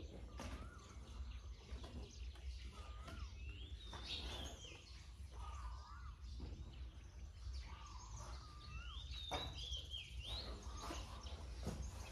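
Birds calling: a short rising-and-falling whistled phrase repeats every two to three seconds, and two higher warbling calls come about four seconds in and near ten seconds. Scattered faint clicks and a low steady rumble run underneath.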